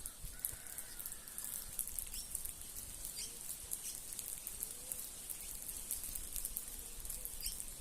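A flock of birds in a yard: many short, high chirps and ticks scattered throughout, with a faint low call now and then.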